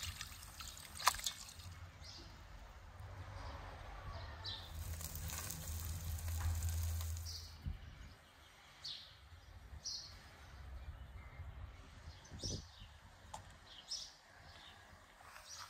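Short, high bird chirps repeating about once a second, over a low rumble that builds and then fades out about eight seconds in.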